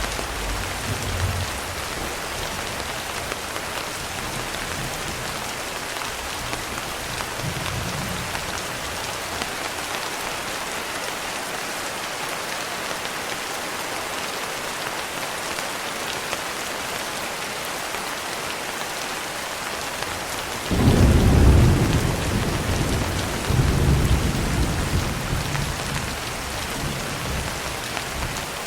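Rain falling steadily, with thunder: a rumble dying away in the first second or so, then a sudden thunderclap about 21 seconds in and a second rolling rumble a couple of seconds later.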